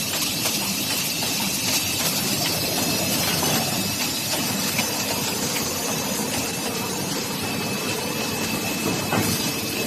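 Bobst die-cutting machine with an automatic stripping system running: a steady mechanical hiss and rumble with a thin, constant high whine above it.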